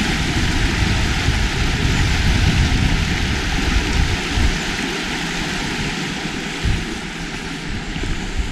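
Wind buffeting the microphone over a steady rushing hiss, the low buffeting dying away about halfway through.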